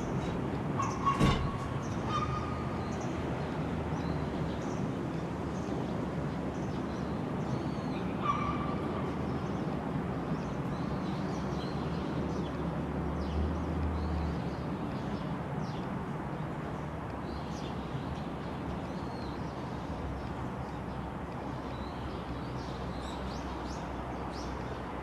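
Birds chirping and a dog barking a couple of times, about a second in and again around eight seconds, over a steady low rumble.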